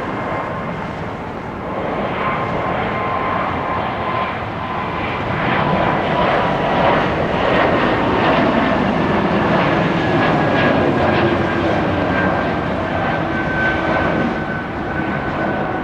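Airbus A220-100 jet airliner's Pratt & Whitney PW1500G geared turbofans at takeoff power as it departs past, a steady high engine whine that slowly falls in pitch, loudest through the middle.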